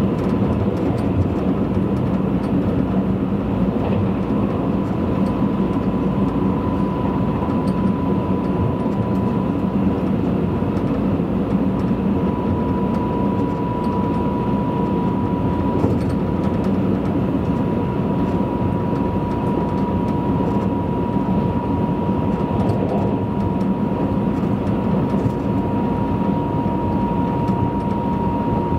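Running noise of a Tobu Spacia limited express train heard from inside the car: a steady rumble of wheels on rail, with a thin, steady high whine that sinks very slightly in pitch.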